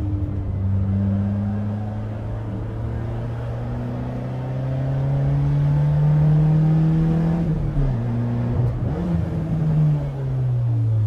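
Peugeot 206's straight-piped 2.0-litre four-cylinder engine with an open CDA/BMC intake, pulling steadily with revs slowly climbing. Just past halfway the revs drop sharply and pick up again briefly, then fall away near the end as the car comes off the throttle.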